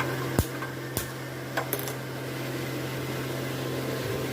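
A steady low mechanical hum, with four sharp clicks within the first two seconds.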